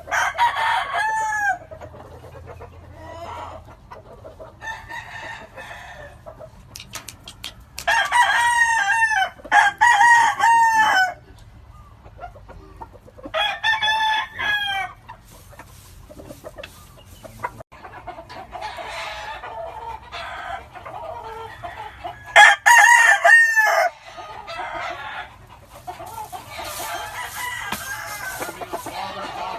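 Roosters crowing in turn, about five loud crows spread across the stretch, with softer clucking and calling from the flock in between.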